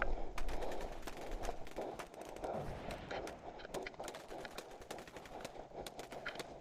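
Airsoft replicas firing in the field: scattered, irregular sharp clicks and cracks of shots, single and in short runs, over a steady background rustle.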